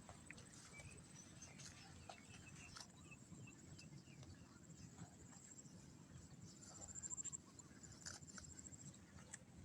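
Near silence: faint background hiss with scattered soft clicks and a faint, steady high-pitched whine.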